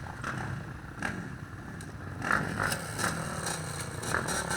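Dirt bike engine running and revving, getting louder a little over two seconds in.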